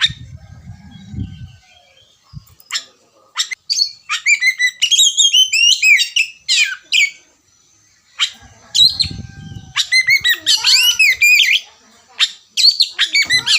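Oriental magpie-robin (kacer) singing: rapid runs of varied whistles and chirps with quick pitch glides, in two long bursts broken by a short pause about halfway through.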